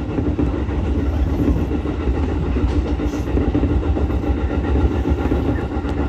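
Ichibata Electric Railway 7000-series electric railcar running along the line, heard from inside the car. A steady low rumble from wheels on rail with a constant motor hum throughout.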